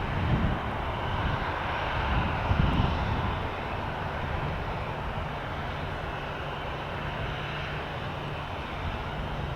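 Aircraft engines running: a steady, even rush with a low hum beneath it.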